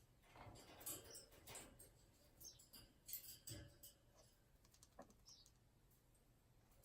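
Faint, irregular clicking and scratching, a few light taps every second.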